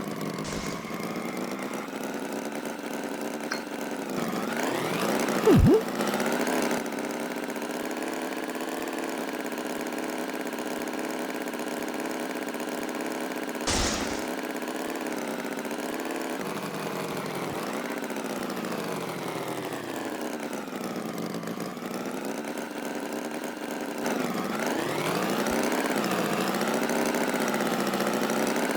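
An engine running steadily at idle, its pitch wavering slowly up and down. There is a short, louder burst about five and a half seconds in and a brief click near fourteen seconds.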